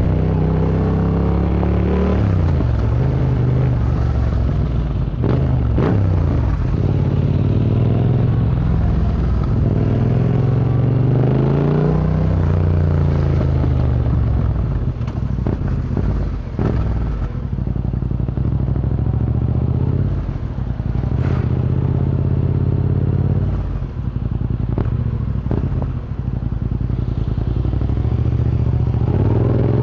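Yamaha MT-07's 689 cc parallel-twin engine breathing through an Akrapovic Racing Line exhaust while riding, its note rising under acceleration and falling off several times as the throttle is closed and gears change, then climbing again near the end.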